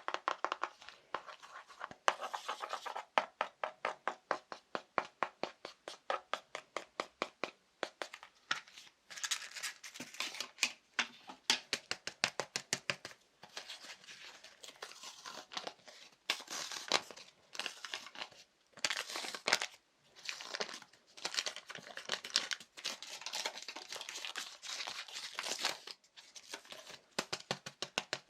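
Fast ASMR tapping on everyday objects: rapid, even taps, many a second, that keep going throughout. From about a third of the way in, the taps are broken up by short stretches of brighter scratching and rustling.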